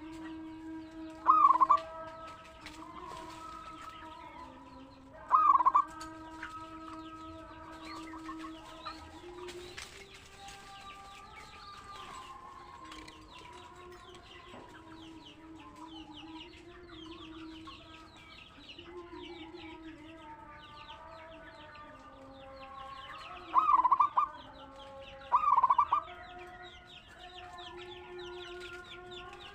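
Zebra doves (perkutut) calling, with five loud short calls spread through, over chickens clucking and small birds chirping.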